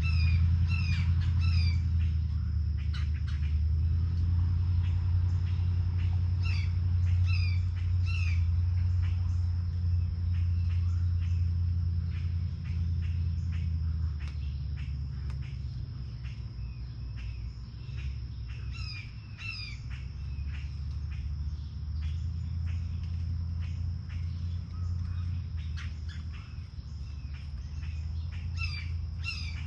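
Birds calling around a feeder in short clusters of harsh, falling notes, a few seconds to ten seconds apart. A steady high insect trill runs underneath, over a low rumble that is the loudest sound.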